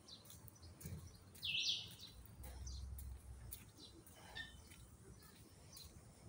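Faint outdoor background with birds chirping: one short, louder chirp about a second and a half in, and a few fainter chirps later.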